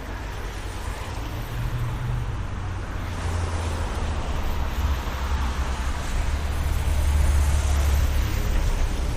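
City street ambience on a rainy, windy day: a steady hiss with a low traffic rumble that swells about three seconds in and is loudest near the end.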